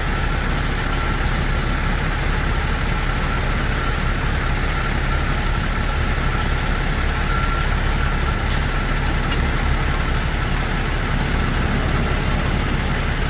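Heavy diesel truck engine idling steadily: a constant low rumble with a thin steady whine above it.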